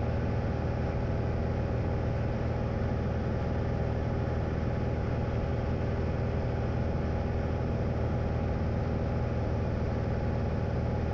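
Light airplane's engine and propeller droning steadily in level cruise, heard from the cockpit, with an even, unchanging pitch.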